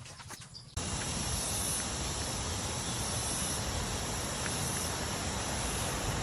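Steady outdoor ambience: a constant rushing noise with a high insect drone over it. It begins abruptly at a cut about three quarters of a second in.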